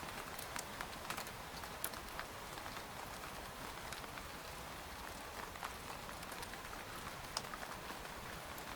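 Steady rain pattering on a tent's fabric: an even hiss with many separate drops ticking sharply on the canvas at irregular moments.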